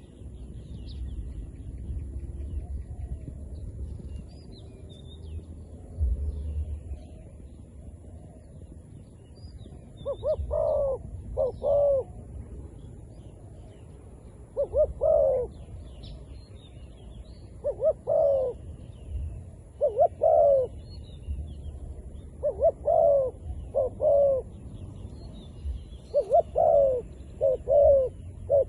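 Zebra dove cooing: short coos in groups of two or three, starting about a third of the way in and repeating every couple of seconds. Faint high chirps of small birds run underneath, with a low rumble in the first few seconds.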